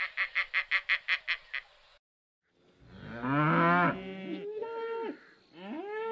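A rapid run of short, evenly spaced calls from another animal, about eight a second, stops suddenly. After a brief gap, cattle moo, several long overlapping calls that rise, hold and fall in pitch.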